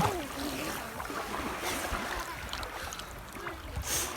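Shallow sea water sloshing and lapping, with a short splash near the end and some wind rumble on the microphone.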